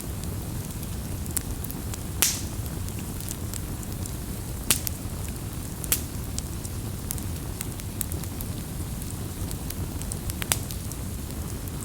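Campfire burning over a steady low rumble, with sharp crackles and pops from the wood every second or so; the loudest snaps come about two, five, six and ten seconds in.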